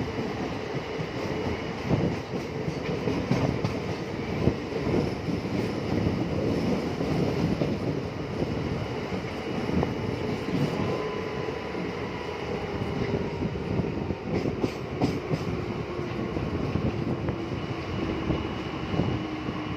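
Train running along the track: a steady rumble of wheels with frequent irregular knocks. A faint tone slowly falls in pitch through the second half.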